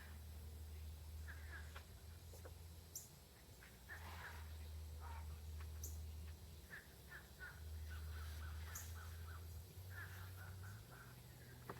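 Faint bird calls, short calls scattered through and a quick series of them in the second half, over a low steady hum.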